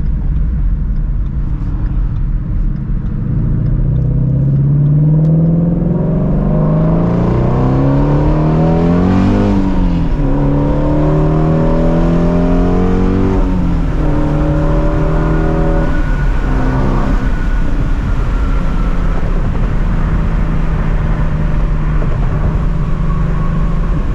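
Ford Shelby GT350's flat-plane-crank V8 accelerating hard: the engine note climbs steeply, drops at an upshift about ten seconds in, climbs and shifts twice more in quick succession, then settles into a steady cruise.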